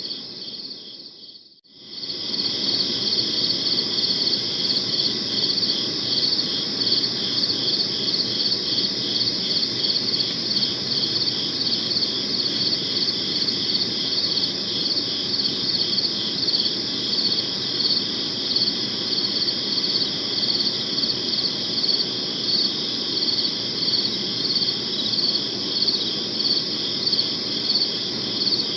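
Crickets chirping in a steady chorus of fast, even pulses. The sound briefly fades out about a second and a half in, then returns.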